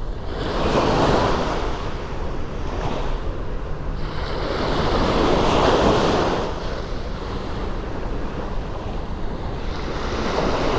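Sea waves washing onto the shore, the surf swelling about a second in and again about five seconds in, with wind rumbling on the microphone.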